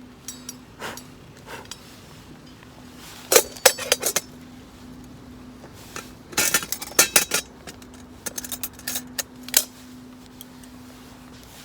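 Small metal camp gear clinking and clattering as it is handled, in three short bursts of sharp clicks.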